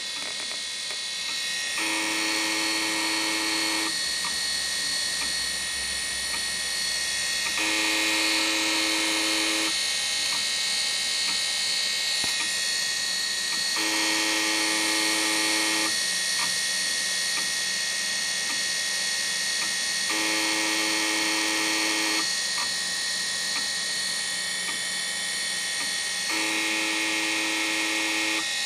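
Seagate ST31013A 1 GB IDE hard drive spinning with a steady high whine and buzzing for about two seconds every six seconds, five times over, with a few faint clicks between, as it tries to format. The sound is the sign of a dying drive, later found to have a couple thousand bad sectors.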